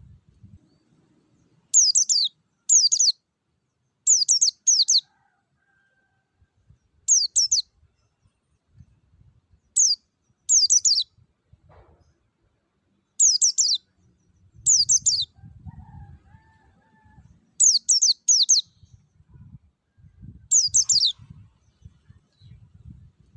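Pleci (white-eye) singing in the 'ngalas' style: short bright bursts of quick, high, downward-sweeping notes, mostly in pairs, repeated every second or two.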